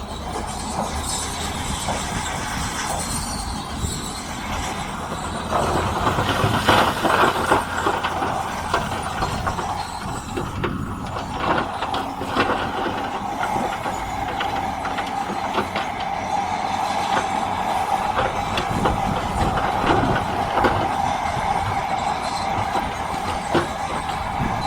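Heavy diesel earthmoving machines working rock: engines running under load, with frequent metallic clanks and knocks. From about halfway a steady high-pitched squealing whine joins in.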